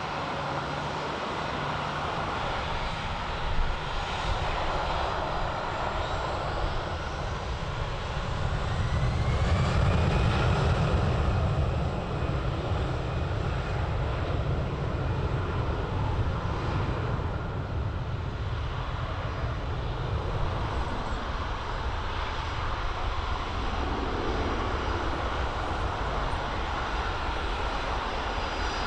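A fixed-wing aircraft's engines running as it passes, swelling to their loudest about ten seconds in, with a faint rising whistle, then settling back to a steady drone.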